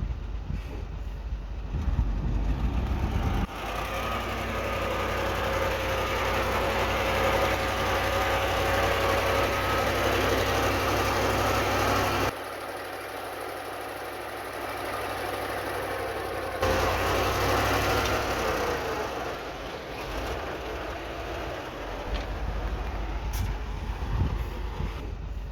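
Heavy diesel earthmoving machinery running steadily, with an engine drone; the sound changes abruptly about 3 seconds, 12 seconds and 17 seconds in, dropping quieter in between.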